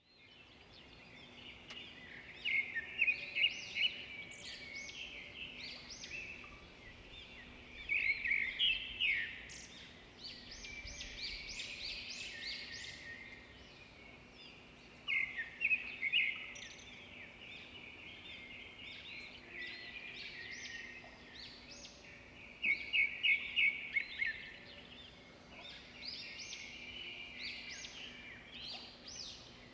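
A group of budgerigars chattering and warbling, with many overlapping chirps and several louder bursts of rapid chatter.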